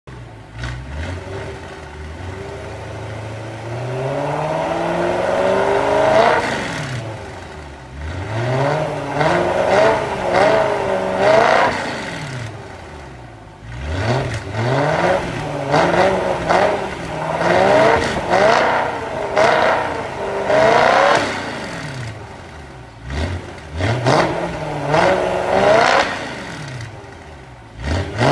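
Car engine with an aftermarket tuned exhaust being revved: one long slow climb in pitch, then a run of quick blips that rise and fall back.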